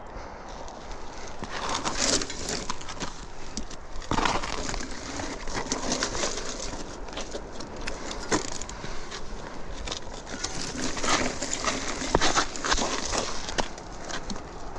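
Mountain bike on a rough dirt trail: tyres crunching over dirt and rock, with irregular clicks and rattles and uneven surges of noise.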